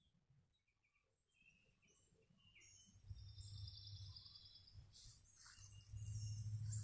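Birds chirping outdoors, with one rapid, even trill about three seconds in. A low rumble comes in with the trill and is loudest near the end.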